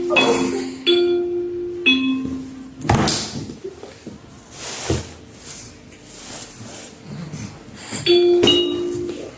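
Electronic chime notes sounding a few at a time, like a doorbell-style ding-dong, with knocks and rustling from handling in the quieter middle stretch.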